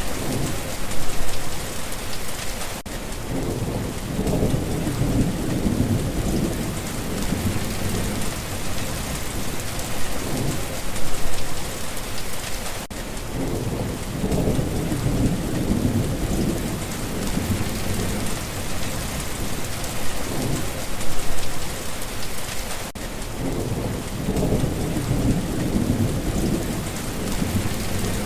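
Steady heavy rain hissing, with low rolls of thunder swelling and fading three times, about every ten seconds.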